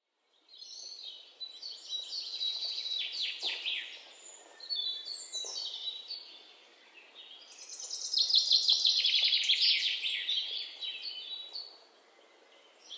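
Songbirds singing: a busy run of quick chirps and trills, loudest past the middle and fading near the end.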